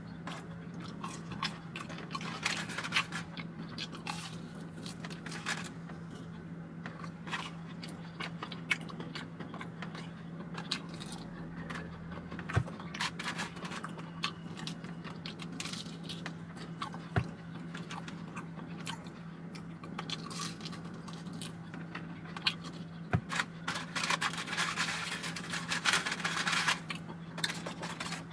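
Close-up chewing and crunching of fried food, with many small sharp clicks and smacks, busiest near the end. A steady low hum runs underneath.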